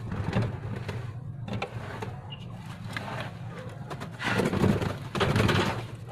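Pigeons cooing in a loft, over brush scrubbing, with two louder bursts of scrubbing about four and five seconds in.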